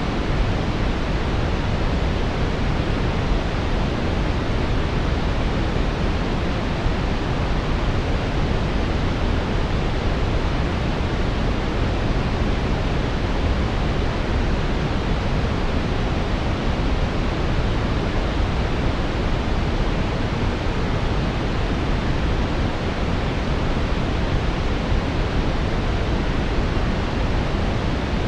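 Steady synthetic brown noise: an even, unchanging hiss weighted toward the low end, with the highs rolled off.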